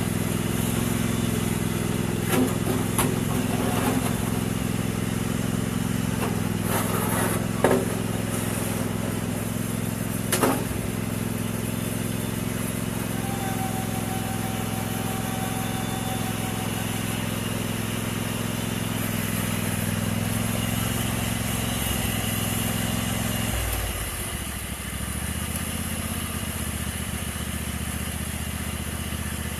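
Riding lawn mower engine running steadily, with a few sharp clanks in the first ten seconds. A little over three quarters of the way through, the engine note dips and then settles at a slightly different pitch.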